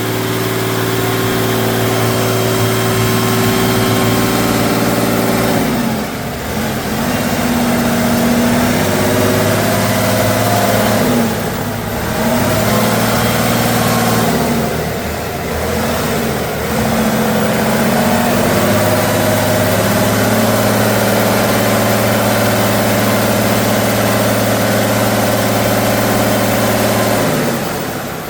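Off-road truck engine running hard under load, holding a steady pitch for several seconds at a time, then dropping and climbing again several times as the throttle is eased and reapplied, with a fall in pitch near the end.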